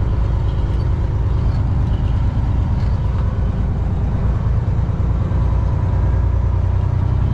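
Semi truck's diesel engine running with a steady low rumble, heard from the cab.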